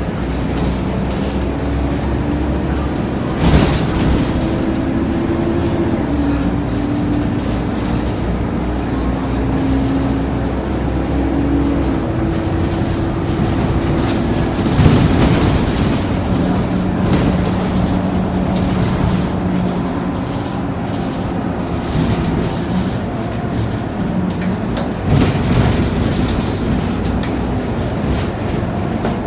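Scania K230UB bus's five-cylinder diesel engine heard from on board while driving, its drone and whine climbing in steps through the first dozen seconds as it pulls through the gears, then settling steadier. Sharp thumps come about three and a half and fifteen seconds in.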